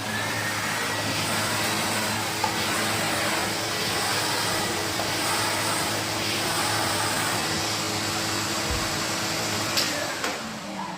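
A vacuum cleaner's motor running with a steady rushing noise and a high whine, spinning up at the start and winding down about ten seconds in.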